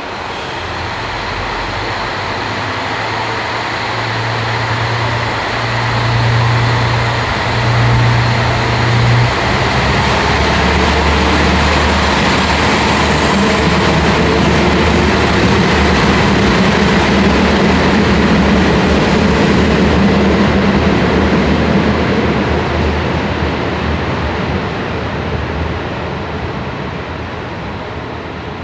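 JR Hokkaido KiHa 54 diesel railcar running past. The engine note climbs in steps early on, and the sound grows louder toward the middle, then fades near the end.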